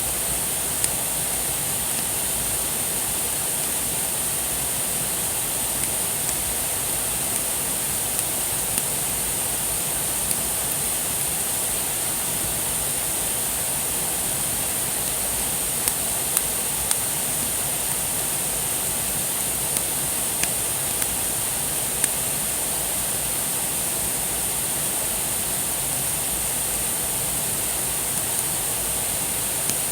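Wood fire burning: a steady hiss with sharp crackles and pops scattered irregularly through it.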